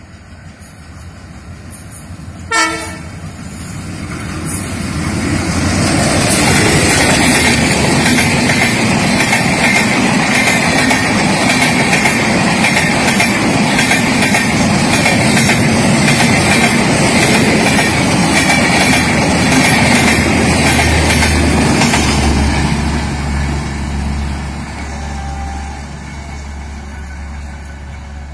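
Benapole Express passenger train running past: a short horn blast a few seconds in, then a loud rush of wheels on rails with a faint rhythmic clatter that builds, holds for about fifteen seconds and fades away toward the end, leaving a low rumble.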